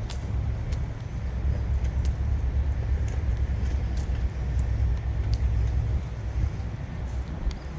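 Low, steady rumble of a large vehicle engine running, with a few faint light clicks.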